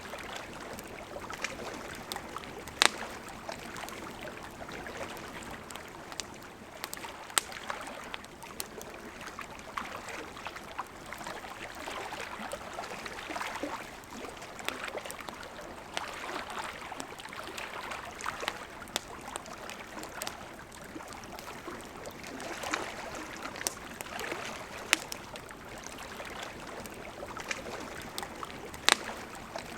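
Campfire crackling, with sharp irregular pops every few seconds, over the steady rush of a flowing river.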